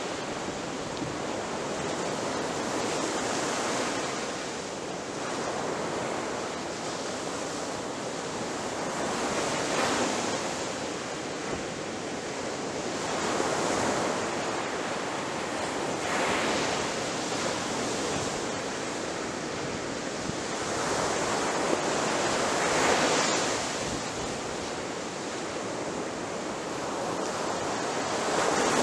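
Ocean waves breaking on a shore: continuous surf that swells every few seconds as each wave crashes.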